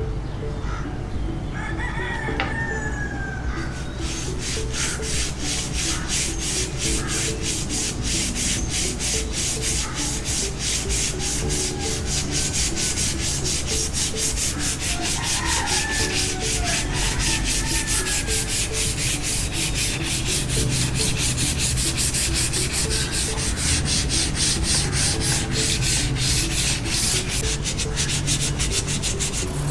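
Hand sanding of a rusted steel sword blade: rhythmic back-and-forth abrasive strokes, about three a second, starting about four seconds in. A rooster crows in the background.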